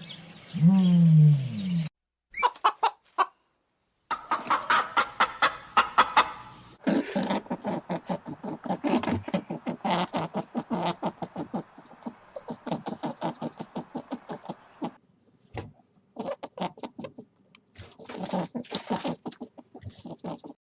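Domestic chickens clucking in quick, dense runs of short calls, heard as several separate clips one after another. The first two seconds hold a low animal call that slides in pitch.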